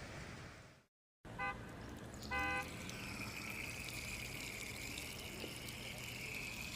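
Two short horn toots about a second apart, the second louder, followed by a steady high hiss.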